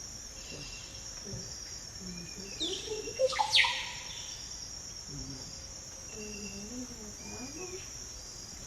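Amazon rainforest soundscape: a steady high-pitched insect drone under scattered bird calls. The loudest call, about three and a half seconds in, is a sharp whistle that sweeps steeply downward. Lower wavering calls come and go through the rest.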